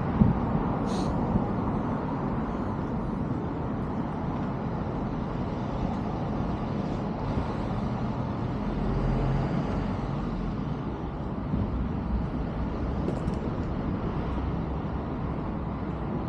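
Outdoor street ambience of road traffic: a steady low hum of vehicles, with one passing closer and swelling a little about halfway through.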